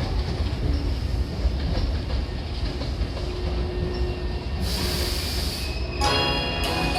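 Hankyu electric train at the station platform, a steady low rumble of its running equipment, with a sharp hiss lasting about a second roughly five seconds in. Near the end a station chime melody begins.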